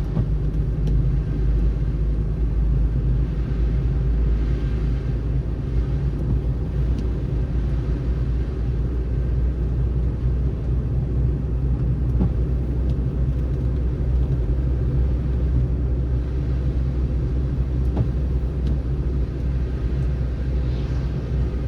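Car driving on a snowy road: a steady low rumble of engine and tyre noise, with a brief rise of hiss about four seconds in and again near the end.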